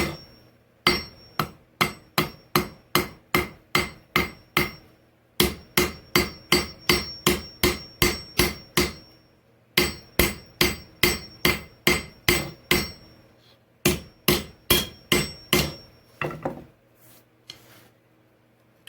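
Hand hammer striking hot steel on an anvil, drawing out the point of a knife blade being forged from an old file. The blows come about three a second in four runs separated by short pauses, each blow leaving a high ring, with a few lighter taps near the end.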